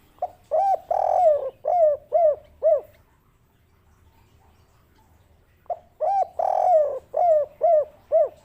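Spotted dove (tekukur) cooing twice, a phrase about five seconds after the first. Each phrase is a short lead-in, a longer coo, then three separate short coos at the end, the 'kuk 3' song type.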